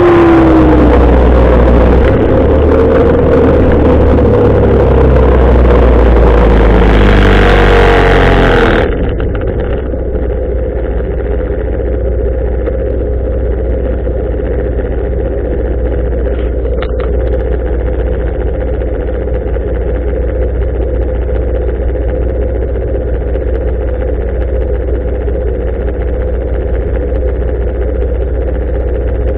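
Motorcycle engine running on the move, with wind on the microphone and the engine pitch sliding up and down as the speed changes. About nine seconds in, the sound cuts to a quieter, muffled, steady engine hum.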